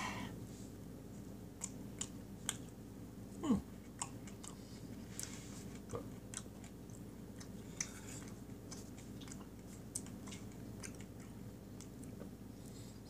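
Chewing of soft tiramisu sponge cake with cream, with wet mouth clicks and smacks and light taps of cutlery on a ceramic plate. A brief falling-pitched mouth sound about three and a half seconds in is the loudest moment.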